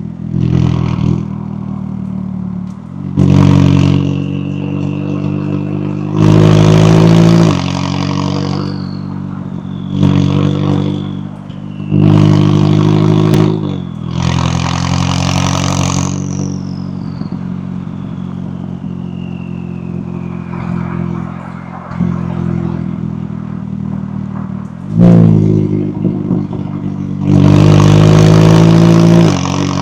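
McLaren 570S twin-turbo 3.8-litre V8 exhaust: the engine runs throughout, with several hard bursts of acceleration, the loudest about six seconds in, about twelve seconds in and near the end. A high whistle falling in pitch follows some of the pulls.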